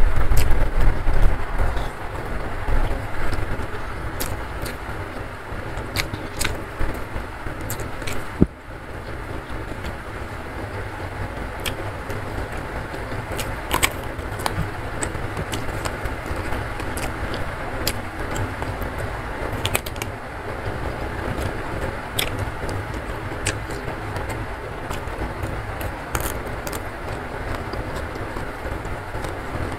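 Close-miked chewing and crunching of food, with frequent sharp, crisp crunches as raw vegetables are bitten and chewed.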